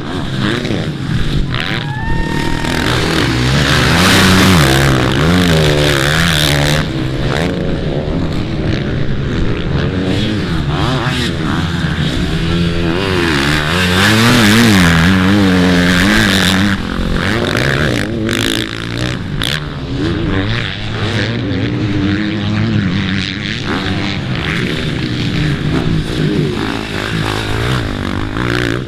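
Motocross dirt bike engines revving hard and backing off as the bikes race around the track, the pitch rising and falling over and over. The bikes are loudest a few seconds in and again about halfway through.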